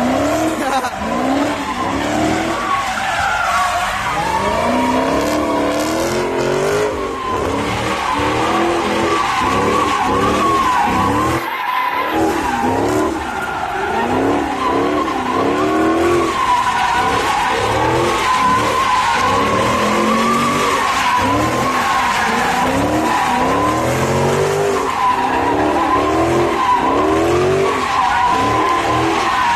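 Car tyres squealing without a break through a drift or burnout, over an engine revving up and down again and again.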